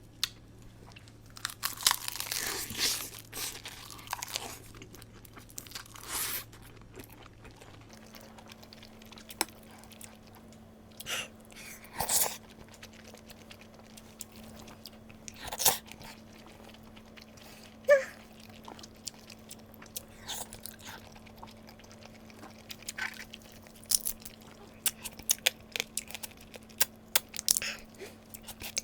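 Close-up eating of seafood: crunching, biting and chewing in separate bursts, with a quick run of many small crunches near the end. A faint steady low hum runs underneath.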